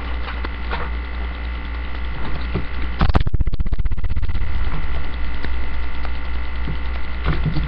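Steady electrical mains hum on the webcam recording, with a quick run of rapid rattling clicks about three seconds in.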